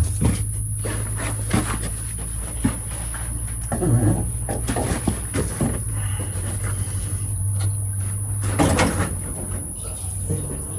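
Massey Ferguson 135's diesel engine running at a steady low idle, with scattered knocks and clanks over it.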